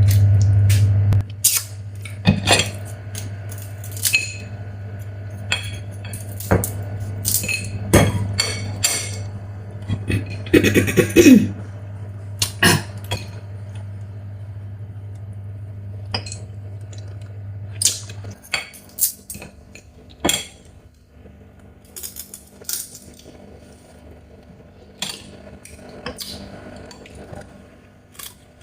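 Scattered clicks, knocks and clinks of crab shell and eating utensils against a plate as a Chinese mitten crab is eaten. Under them runs a steady low hum, loud for about the first second, then fainter, which stops about two-thirds of the way through.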